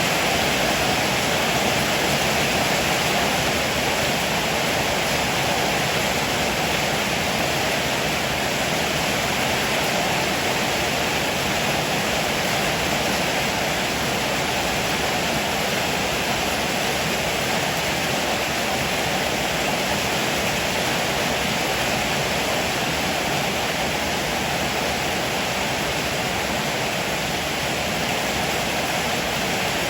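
Heavy rain falling steadily, an even unbroken hiss with no thunderclaps.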